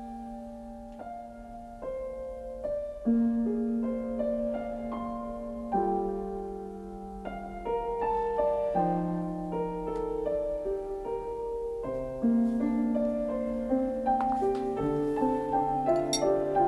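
Piano music: single notes and chords played slowly, one about every second, growing louder toward the end.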